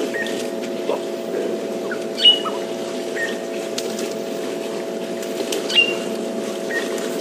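A bird calling over and over: a high whistle that slides down and holds briefly, followed about a second later by a shorter, lower note, repeating every three to four seconds over a steady hum.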